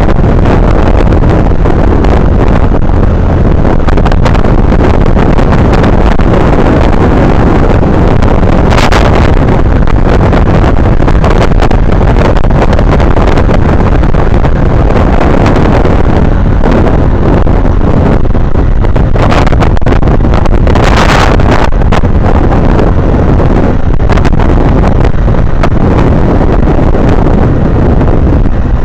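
Heavy wind buffeting on the microphone over the running engine of a Honda Navi mini motorcycle while riding, with a few brief louder gusts.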